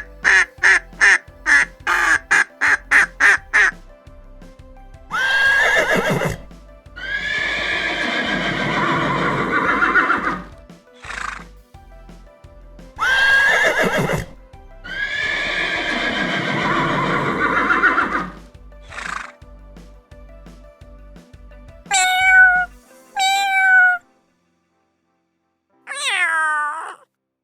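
A horse whinnying, the same long whinny heard twice, each with a short lead-in call and a brief tail. It comes after a rapid run of short quacks at the start. Near the end come three short calls that fall in pitch.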